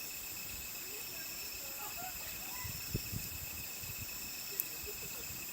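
Steady chorus of crickets trilling at several high pitches, with a wood fire giving a few soft pops around the middle and one sharp crack near the end.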